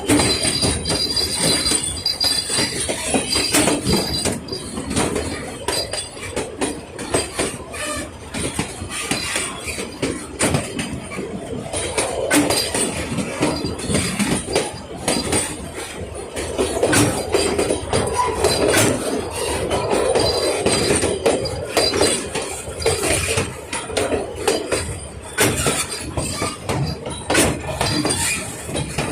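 Puffing Billy narrow-gauge train rolling along, its wheels clattering and knocking over the rail joints. A thin, high wheel squeal comes in near the start and again near the end.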